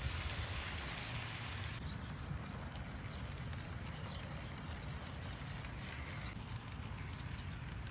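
HO scale model train running on outdoor track: a steady low rumble with irregular clicking from the wheels on the rails. A bird chirps faintly about a second and a half in, and a hiss cuts off suddenly about two seconds in.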